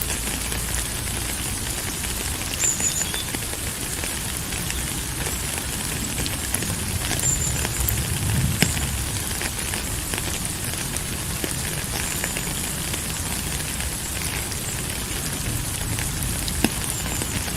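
Steady rain falling, a continuous hiss scattered with the ticks of individual drops.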